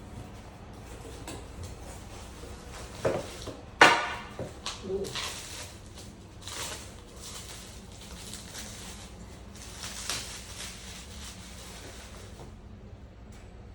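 Small coffee-making tools being handled: a few knocks, then one loud ringing clink about four seconds in, followed by a stretch of rustling that stops near the end.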